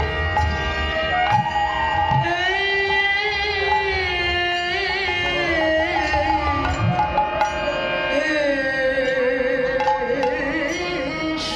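Bengali devotional kirtan music: a melodic line wavering in pitch over steady held notes, with hand-drum strokes underneath.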